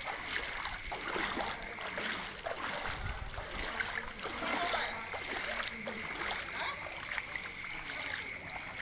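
Water splashing and flowing, with many small irregular splashes over a steady rush, as on a rain-flooded street.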